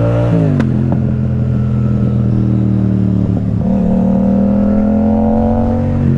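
Yamaha MT-07 parallel-twin engine pulling under acceleration, its pitch climbing, dropping sharply about half a second in at a gear change, then climbing slowly again.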